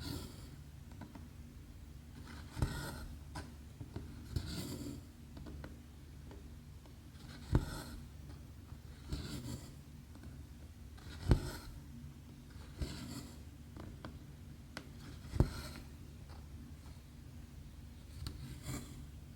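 Hand cross-stitching on 11-count canvas: the needle pokes through the cloth with a sharp click about every four seconds, and in between the embroidery thread is drawn through with a rasping swish. A low steady hum runs underneath.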